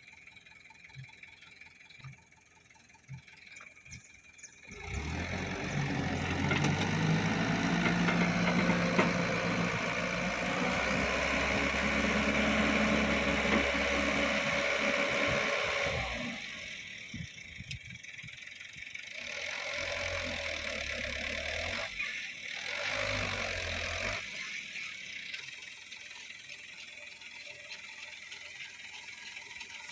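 Diesel engine of a soil-loaded dump truck working hard: it comes in loud about five seconds in and runs strongly for about ten seconds, eases off, surges again twice more briefly, then runs quieter near the end.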